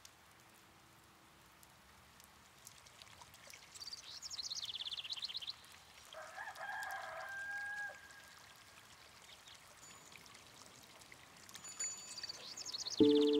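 A rooster crowing faintly in the middle, with a small bird's quick descending trill before it and again near the end, over a low steady hiss.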